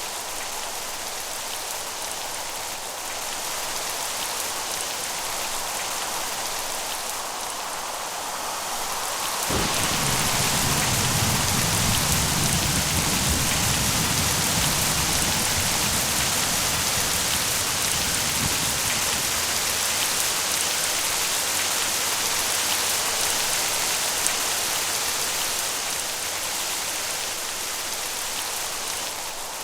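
Steady rain falling. About ten seconds in, a roll of thunder breaks in suddenly and rumbles for roughly ten seconds before fading back under the rain.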